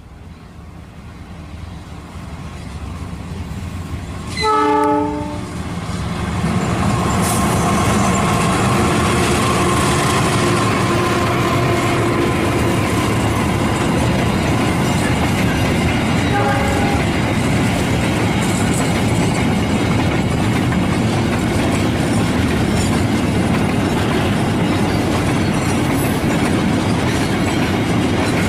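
A CC206 diesel-electric locomotive approaches and passes, its engine growing louder. It gives one horn blast of about a second some four seconds in, and a shorter, fainter one about sixteen seconds in: the semboyan 35 horn signal of Indonesian railways. Steady running noise and the rattle of wheels over rail joints follow as the train goes by.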